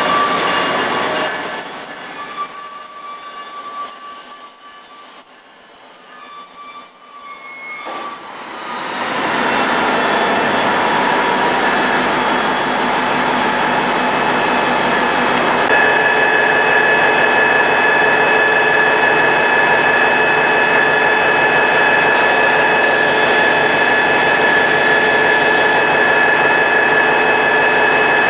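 Freight train rolling slowly past, its steel wheels squealing in steady high-pitched tones over the rumble of the cars. The squeal drops a little in pitch about nine seconds in, and about halfway through, as the locomotives draw alongside, more steady tones join lower down.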